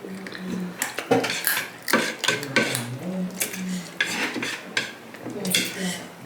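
Dishes and utensils clinking and clattering while people eat, an irregular run of sharp clicks and knocks.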